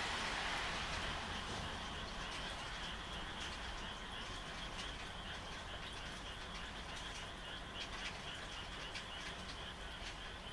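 Night chorus of frogs calling: a steady high-pitched chorus with scattered short clicking calls. Over the first couple of seconds, loud rain noise fades away beneath it.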